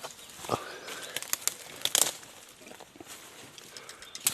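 Rustling and crackling of dry leaves and twigs underfoot as someone pushes through forest undergrowth, in irregular sharp snaps with the loudest around the middle and at the end.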